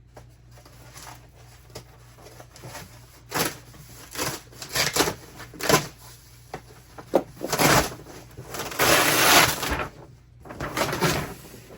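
Cardboard packaging being handled and pulled off, a run of scraping and rustling bursts that start about three seconds in, with the longest and loudest about nine seconds in.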